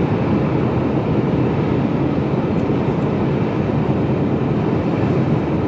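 Mercedes-Benz Actros lorry on the move, heard from inside the cab: a steady drone of engine and road noise.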